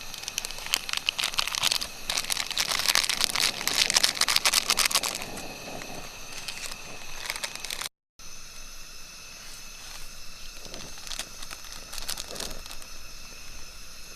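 Dense crinkling, crackling noise for about five seconds, fading into fainter scattered clicks; the sound drops out briefly about eight seconds in.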